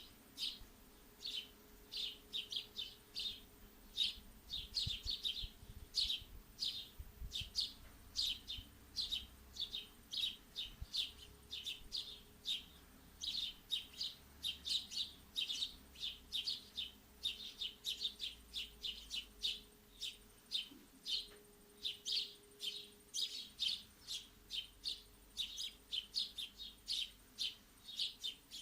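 Small birds chirping over and over in short, high chirps, several a second, with brief pauses between runs.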